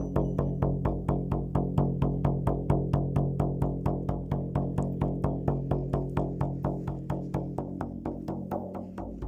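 Shaman's frame drum beaten in a fast, steady rhythm of about six strokes a second, each stroke with a low boom.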